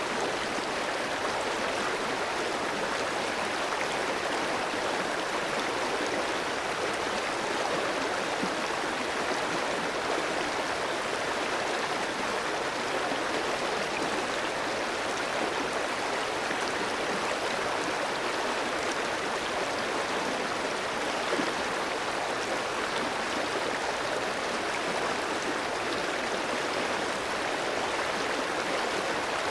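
Clear mountain stream flowing over rocks: a steady, even rush of water.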